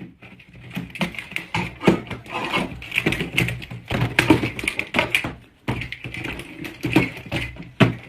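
Irregular tapping and clicking, several knocks a second, over a faint low hum.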